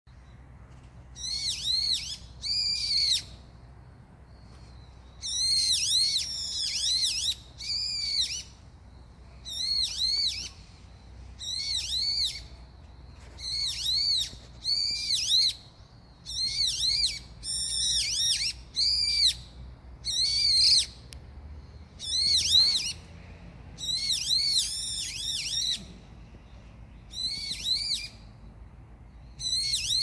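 A bird calling again and again: short, clear whistled notes that rise and fall, in groups of two to four, a new group every second or two.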